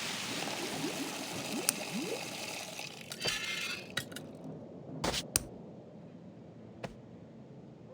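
Liquid pouring into a glass vessel for about three seconds, with short rising gurgles, followed by several sharp clinks and knocks.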